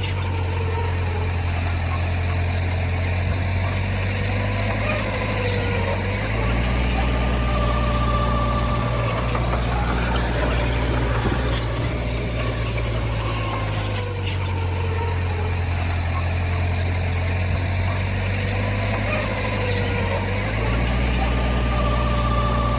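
Bulldozer's diesel engine working under changing load. A steady low drone steps up and down in pitch about every seven seconds, and a higher whine above it dips and rises with each cycle.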